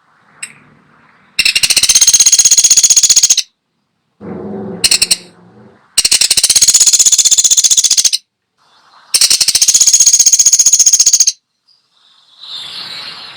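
Woodpecker (pelatuk sampit) calling in long, very rapid, high-pitched rattling trills, three of them about two seconds each, with a shorter, lower, harsher call about four seconds in.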